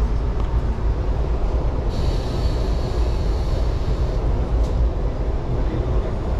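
Electric train running through a station, heard from on board: a steady dense rumble of wheels and carriage, with a thin high whine laid over it for about two seconds in the middle.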